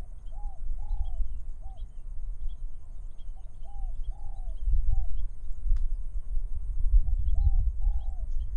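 A dove cooing a three-note phrase, short-long-short, three times over about every three and a half seconds, with small birds chirping faintly. A low rumble of wind on the microphone runs underneath and is the loudest sound.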